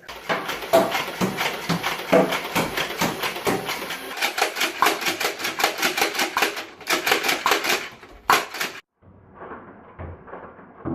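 Rapid, evenly spaced clacks of Nerf blasters firing, about four or five a second, stopping short near nine seconds, then fainter, duller clacks.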